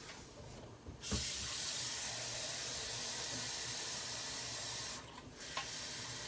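Kitchen tap running steadily, drawing water for the soup pot. The flow starts about a second in, stops briefly near the end, and then runs again.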